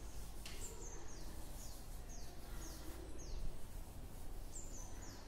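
A small bird chirping over and over in short, high, falling notes about twice a second, over a steady low hum.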